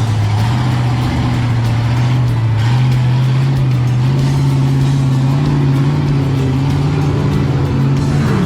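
Truck engine running hard at high revs, its pitch holding steady and climbing slowly.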